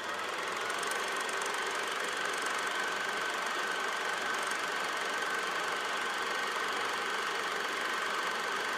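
Steady mechanical running noise with a constant high whine, unchanging throughout.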